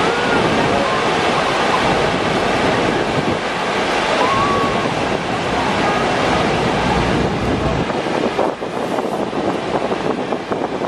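Steady rushing roar of Niagara's falling water and spray, with wind buffeting the microphone; the low rumble eases slightly near the end.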